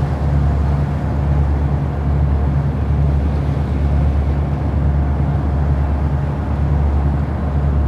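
Riverboat engine running steadily, heard on board: a loud low drone with a throb about twice a second, over a wash of noise.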